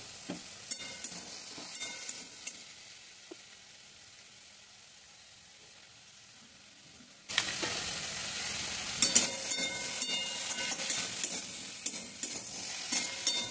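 Mixed vegetables sizzling as they fry in oil in a metal kadai, with a metal spatula scraping and clinking against the pan as they are stirred. The sizzle is faint and fades at first, then comes back much louder about seven seconds in, with frequent scrapes and clicks.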